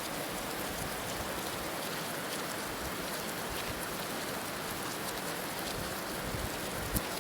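Heavy rain falling steadily, an even hiss of many drops, with one sharper drop striking near the end.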